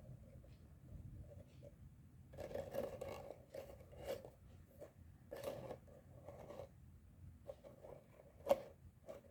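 Plastic pop tube fidget toys being handled, giving bunches of soft crackling clicks, with one sharper click about eight and a half seconds in.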